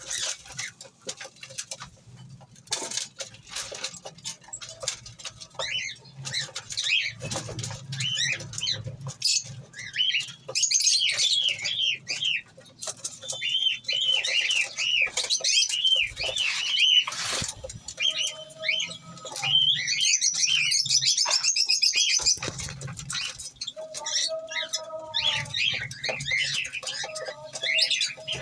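Seraji pigeons with wings flapping and clattering, amid many repeated high chirping calls and a few short, lower-pitched calls.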